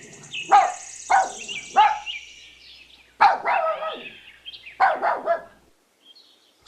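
A puppy barking in short, high yips, about six of them, that stop about a second before the end.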